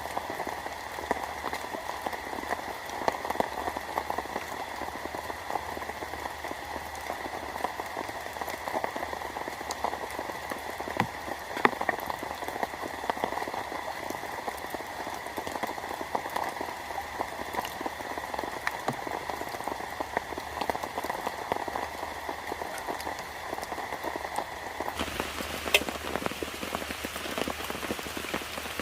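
Steady rain falling, with many scattered sharper drop ticks. About 25 s in, the sound changes suddenly to a broader, brighter rain hiss.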